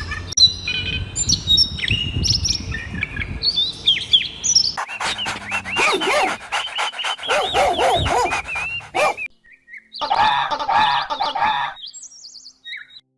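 Birds chirping and calling: scattered high chirps, then a dense stretch of many overlapping warbling calls, a short break, and another burst of calls.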